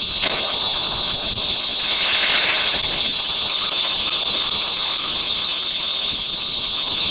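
Fireworks hissing: a steady rush that swells about two seconds in, with a couple of faint sharp cracks.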